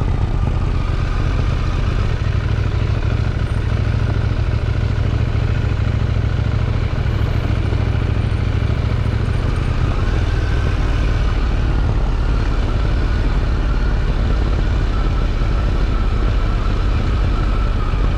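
KTM 790 Duke's parallel-twin engine running steadily through its stock exhaust, with no revving; its low note shifts slightly about ten seconds in.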